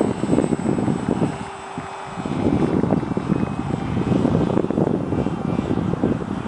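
Steady whine of a radio-controlled model airplane's motor in flight. Gusty wind buffeting on the microphone is the louder sound, easing briefly about a second and a half in.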